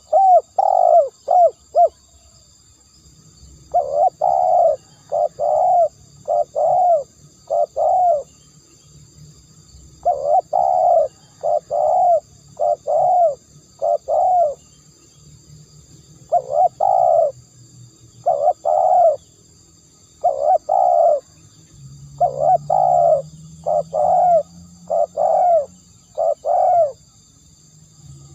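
Spotted dove cooing: short phrases of several coos, each phrase about a second long, repeated again and again with brief pauses between them.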